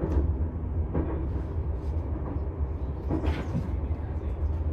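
Passenger train running, heard as a steady low rumble with a few brief rattles on top.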